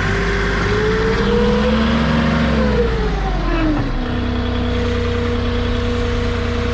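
Moffett truck-mounted forklift's engine revving up over about two seconds, dropping back, then running steadily.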